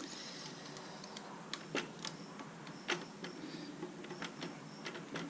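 Hose clamp on a small-engine fuel line being tightened with a flat-head screwdriver: a string of irregular sharp clicks.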